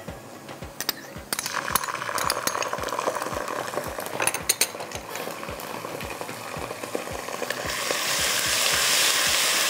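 Onions and spices frying in hot oil in a pot, stirred with a spoon: sizzling with spoon clinks against the pot, jumping up about a second in and louder again near the end.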